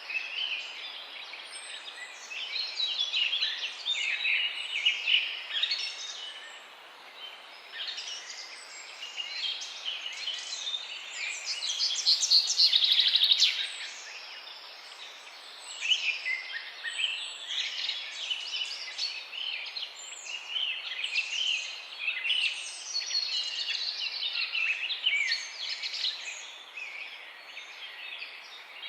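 Several songbirds singing at once, a mix of chirps and song phrases over a steady background hiss. About twelve seconds in, a denser run of rapid notes is the loudest part.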